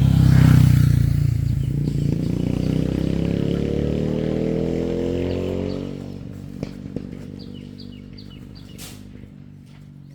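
A motor vehicle's engine running loud, rising in pitch as it speeds up, then fading away about six seconds in as it moves off.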